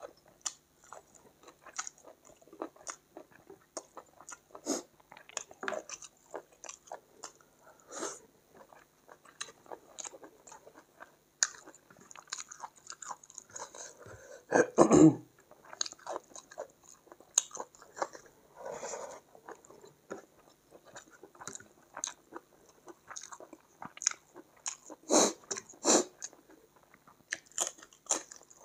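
Close-miked eating of chicken curry and rice by hand: irregular wet chewing and biting sounds from the mouth. About halfway through there is a louder burst as the hand mixes rice on the plate, and two strong bites come near the end.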